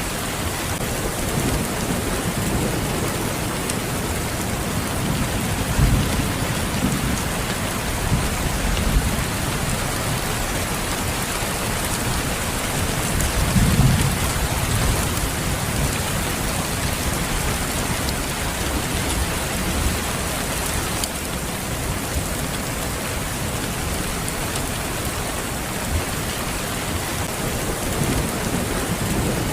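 Steady rain falling, with low rolls of thunder about six seconds in and again around fourteen seconds.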